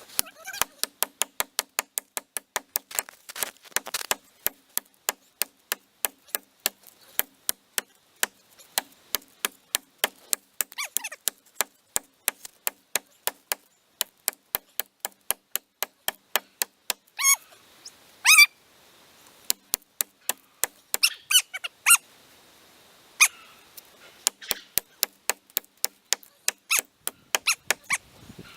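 Rapid, even cutting strokes into a dead standing tree, about three a second, with a few louder, sharper strokes about two-thirds of the way through.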